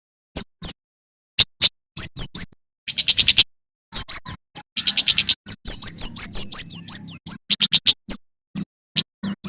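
Male kemade (prenjak keres) singing loudly: sharp, high chirped notes and fast rattling trills in quick succession, broken by a few brief pauses.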